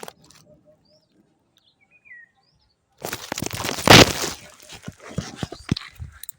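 A cut section of moringa tree falling: a loud rush of leafy branches crashing down, loudest about four seconds in, followed by a run of sharp cracks as the brittle branches snap. A bird chirps once just before.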